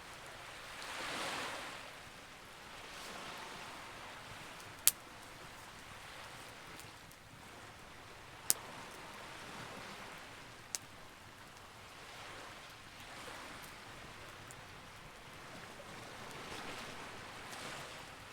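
Campfire crackling with three sharp pops, over sea waves washing in and fading every few seconds, the biggest swell about a second in.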